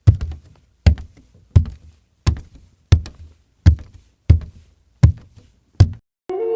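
Nine sharp knocks in an even rhythm, a little more than one a second, each with a dull low thud. Just before the end a steady pitched tone starts.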